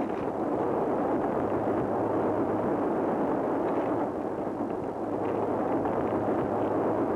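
Train passing close alongside the track, a steady, dense rumble and clatter of its wheels and cars that does not let up.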